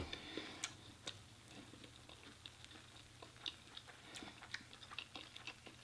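Close-miked chewing of a mouthful of food: a string of faint, irregular wet mouth clicks and smacks.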